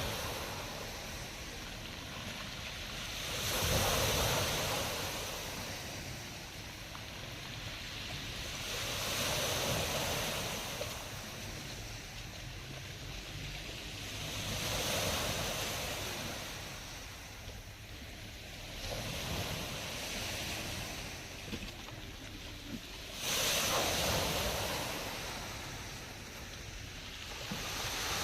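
Black Sea waves breaking on the shore, each wave swelling in and washing back about every five to six seconds, with a steady hiss of surf between them.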